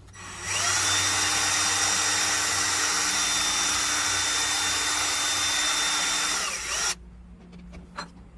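A small high-speed rotary power tool spins up with a rising whine, runs steadily for about six seconds with a loud hiss, then winds down and cuts off.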